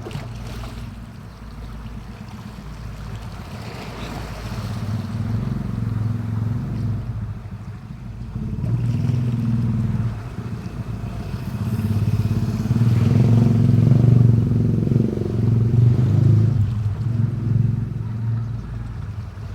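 A motor engine running, growing louder to a peak about two-thirds of the way through and then easing off.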